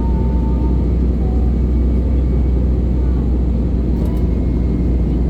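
Steady, loud low rumble of an Airbus A319-112's CFM56 jet engines and the airflow, heard inside the passenger cabin in flight after take-off.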